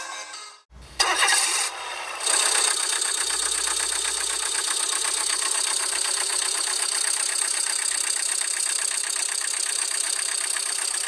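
Tractor-style engine starting about a second in, then running at a steady, fast knocking idle.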